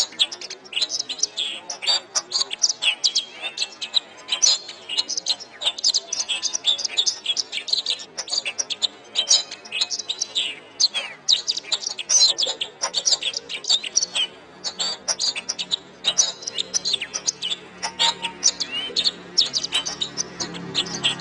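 Domestic canary singing a fast, unbroken run of high chirps, trills and whistles.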